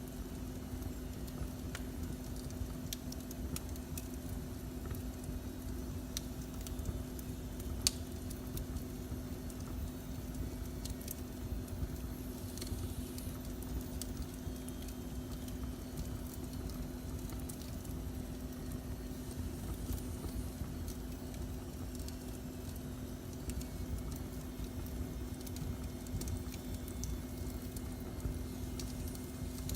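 Wood fire crackling, with scattered sharp pops and one louder pop about eight seconds in, over a steady low hum.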